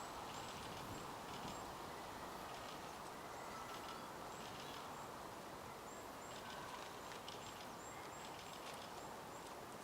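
Wild birds calling outdoors: repeated short, high-pitched chirps and brief ticking note clusters, coming every second or so, over a steady background hiss.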